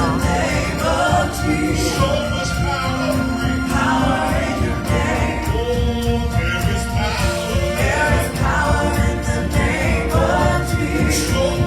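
Gospel choir singing with instrumental accompaniment, a steady, full musical texture.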